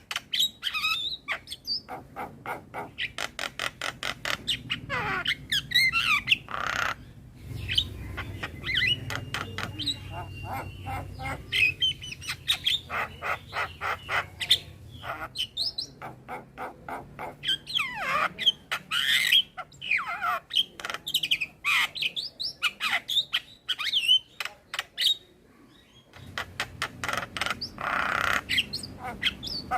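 Male Javan myna singing a varied song: fast clicking rattles, harsh squawks and rising and falling whistles, with a brief pause about 26 seconds in.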